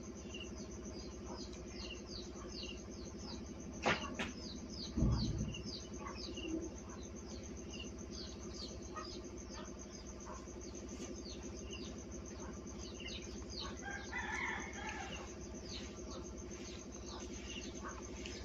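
Birds chirping steadily: a run of short, high, falling chirps repeating every fraction of a second, over a steady low hum. A knock about four seconds in and a low thump about a second later stand out as the loudest sounds.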